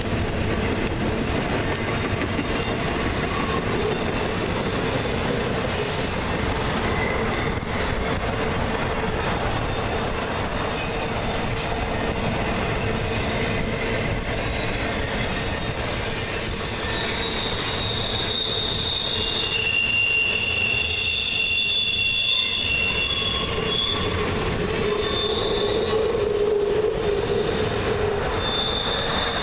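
Freight train cars rolling past with steady rumbling and wheel noise, and high squealing tones from the wheels in the second half.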